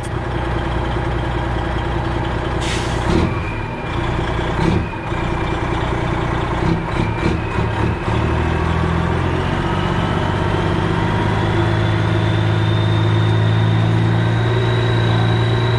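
Freightliner Classic XL semi truck's diesel engine running, with a cluster of short clicks and knocks a few seconds in; from about halfway the engine note and a high whine slowly rise in pitch.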